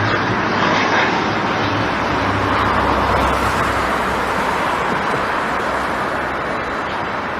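Jet aircraft engine noise, a loud steady rushing roar that slowly eases off toward the end.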